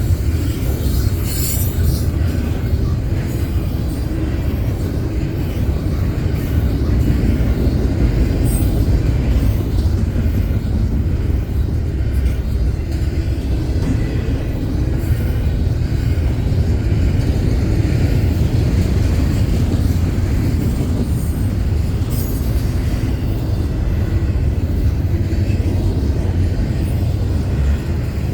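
Union Pacific double-stack container train rolling past, a steady low rumble of the cars on the rails with a few short clicks from the wheels.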